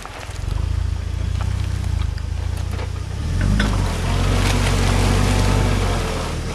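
UAZ Patriot's engine running at low revs as the SUV crawls in gear without throttle over forest ground, its note swelling under load about three and a half seconds in. Scattered sharp clicks and cracks sound over the engine.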